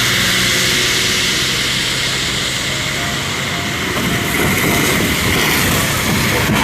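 Traffic on a rain-wet highway: a steady hiss of tyres on water, with a low, uneven rumble growing about four seconds in.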